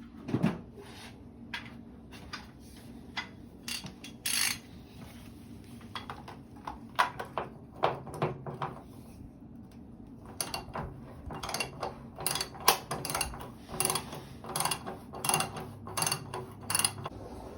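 Ratchet and 1.5-inch socket working a water heater's heating element loose: scattered metal clicks and scraping, then a run of sharp clicks about two a second in the second half.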